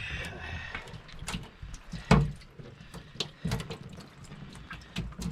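Scattered knocks and clicks with water sounds as a cast net of bait fish is handled in a boat, with a heavier thump about two seconds in.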